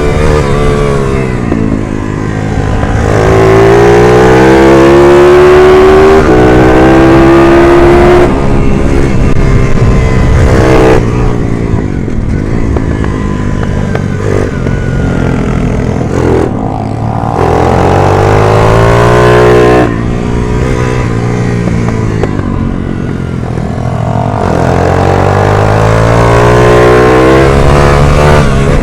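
Racing minibike engine revving hard, its pitch climbing under acceleration and then dropping sharply about every three to six seconds as the rider shifts or backs off the throttle for corners.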